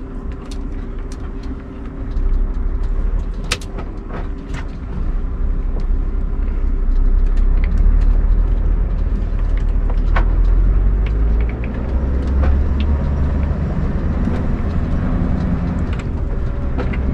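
Scania R580 truck's V8 diesel engine running as the truck drives, a heavy low rumble that swells about two seconds in and grows louder in the middle, with scattered knocks and rattles.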